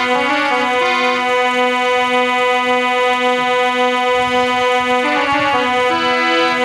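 Harmonium playing an instrumental interlude: a held low drone note with a changing melody above it.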